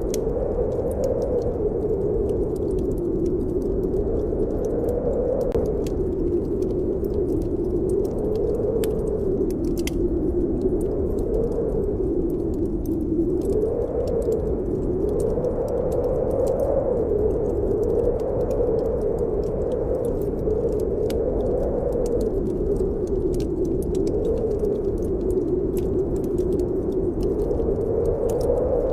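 Snowstorm wind howling, a steady low moan that slowly wavers up and down in pitch, with a log fire's small crackles and pops scattered over it.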